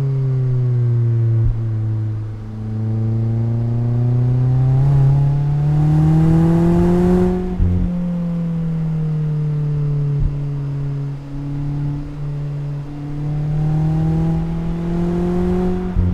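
Mazda MX-5's four-cylinder engine and exhaust while driving. The engine note sinks, then climbs steadily under acceleration until a gear change with a short thump about halfway. It settles lower and pulls up again near the end, where there is another thump.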